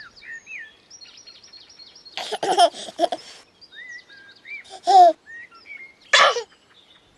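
Small garden birds chirping and singing in short rising and falling notes, broken by three louder short bursts about two, five and six seconds in.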